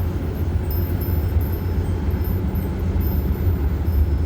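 Steady low rumble of engine and road noise heard from inside the cabin of a moving vehicle.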